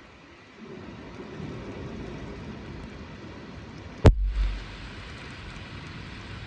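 Steady rain and wind noise from a severe thunderstorm. About four seconds in there is a single sharp crack followed by a short, heavy low thump.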